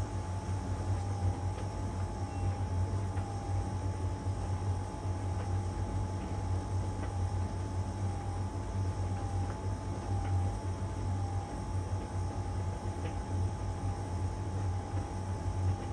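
LG heat pump dryer running mid-cycle, drum turning: a steady low hum with a fainter, slightly wavering whine above it, and a few faint ticks now and then.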